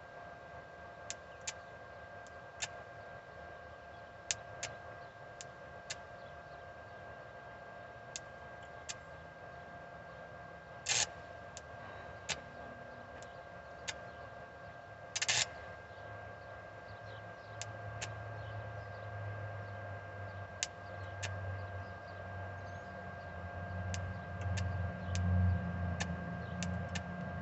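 Stick (arc) welder electrode being scratched and tapped to strike an arc: scattered sharp clicks, with two brief sputters of arc about 11 and 15 seconds in that do not hold, as the rod keeps sticking. A steady faint whine runs under it, and a low rumble builds through the last third.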